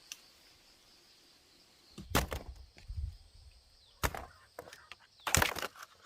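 Three loud thuds with rustling, about two, four and five and a half seconds in, over a steady high hum of insects.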